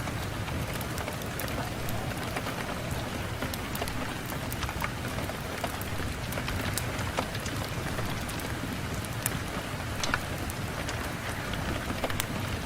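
Steady rain on a window, an even hiss with scattered sharp ticks throughout.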